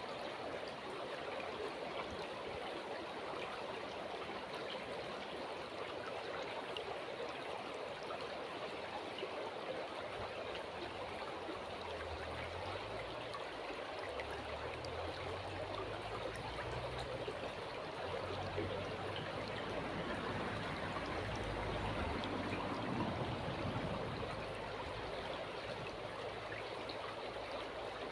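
River water flowing steadily. A low rumble joins in about halfway through and swells for a few seconds before easing.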